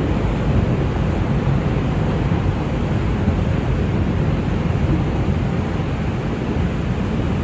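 Steady running noise of an R142 subway train heard from inside the car: an even low rumble and rush of wheels on rails while the train travels between stations.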